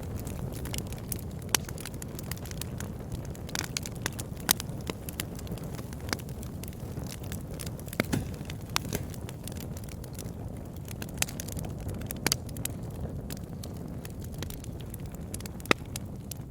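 Wood campfire burning, with a steady low rumble of flames and irregular sharp crackles and pops from the burning wood. A few louder pops stand out.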